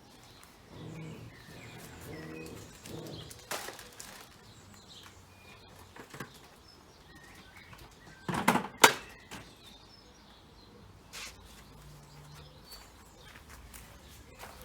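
Garden birds chirping faintly now and then, with scattered knocks and rustles as bird feeders are handled; the loudest is a sharp double knock about eight and a half seconds in.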